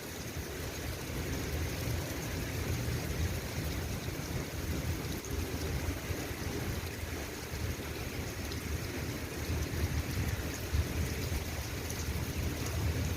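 Steady rain falling, with a continuous low rumble underneath and scattered faint drop ticks.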